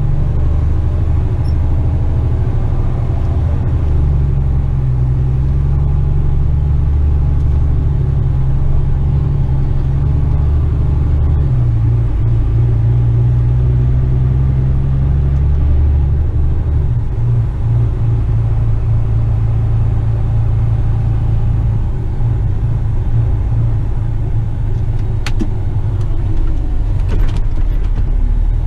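Western Star tipper truck's diesel engine running as the truck drives slowly, a deep steady drone that shifts in pitch about 11 seconds in and again about 17 seconds in. A few faint clicks near the end.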